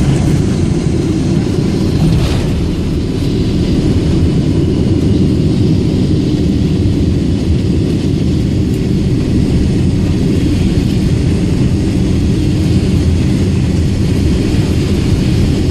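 Steady low rumble of a Boeing 777-200ER's engines and airflow heard inside the passenger cabin.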